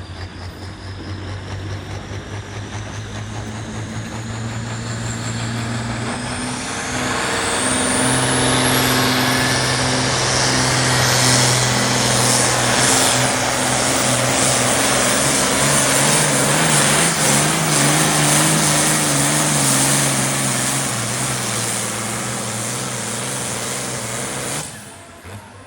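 Turbocharged diesel pulling tractor at high RPM, its turbo whistle rising steadily over the first several seconds as it spools up. The engine gets louder about seven seconds in as the tractor pulls under load, then cuts off suddenly near the end.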